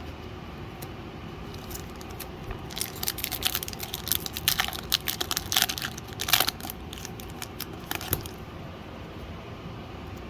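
Foil Pokémon booster pack wrapper being torn open and crinkled, a run of crackling rustles for several seconds that dies away about two seconds before the end.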